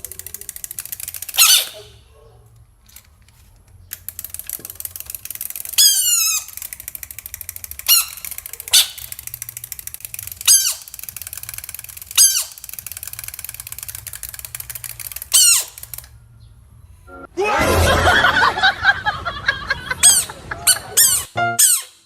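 Short, high-pitched animal squeaks at intervals, each a quick arching or falling peep, then a loud, harsh squealing call lasting about four seconds near the end. A steady rapid ticking runs underneath.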